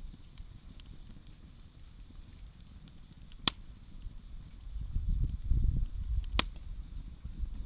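Wood fire burning with faint crackles and two sharp pops, about three and a half seconds in and again near the end, alongside a low rumble in the second half.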